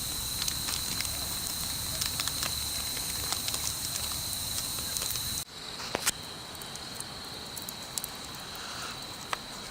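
Wood bonfire crackling, with frequent small pops over a steady hiss. About halfway through, the low rumble drops away suddenly, and a couple of louder pops follow just after.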